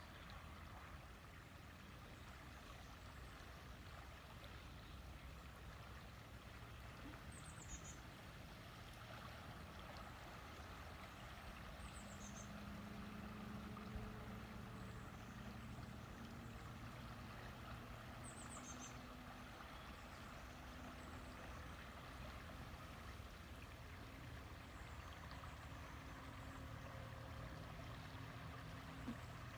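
River water flowing steadily. A few brief high bird chirps, each a quick falling note, come through it, and a faint low hum sets in about halfway.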